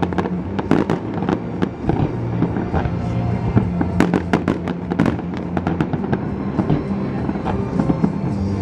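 Fireworks bursting in a rapid, irregular string of sharp cracks and pops, over loud music from the show's soundtrack playing along.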